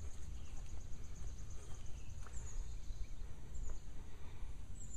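Outdoor ambience: small birds chirping in short, high repeated notes, a quick run of them in the first couple of seconds and scattered ones after. Underneath is a steady low rumble.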